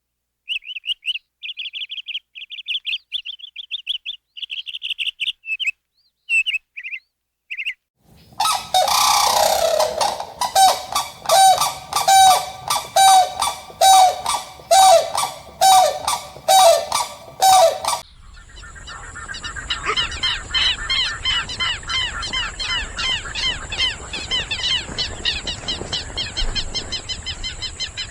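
A run of bird calls in three cut-together parts: short high chirps with gaps, then loud calls repeated about twice a second, then a fast chattering of many calls over a steady high hiss.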